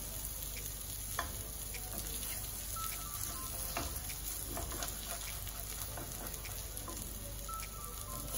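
Custard-soaked bread pockets frying in oil in a nonstick pan: a steady sizzle with scattered crackles, and a spatula scraping the pan as the pieces are flipped and lifted.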